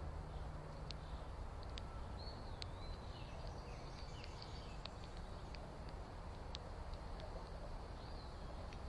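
Outdoor backyard ambience: a steady low rumble with scattered small sharp ticks and a few faint, short high chirps from birds, about two to three seconds in and again near the end.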